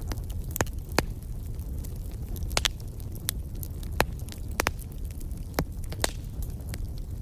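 Wood fire in a fireplace crackling: about ten sharp pops and snaps at irregular intervals over a steady low rumble.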